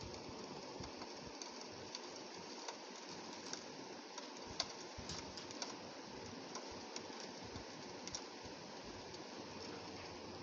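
Steady rain with many small drops ticking irregularly on window glass.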